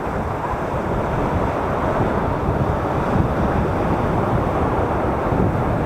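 Sea waves washing around in shallow surf, with wind buffeting the microphone; a steady rushing noise with no separate breaks standing out.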